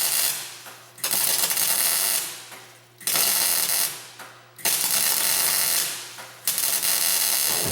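Welder laying short stitch welds on sheet-metal rust repair strips on a car body: four bursts of crackling hiss, each about one to two seconds long, with a faint steady low hum underneath.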